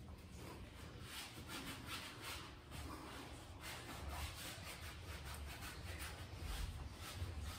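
Faint irregular rubbing and rustling, a run of short scraping strokes in a small room.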